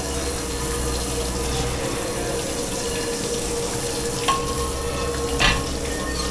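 Water running steadily from a tap into a sink, over a faint steady hum, with two short knocks about four and five and a half seconds in.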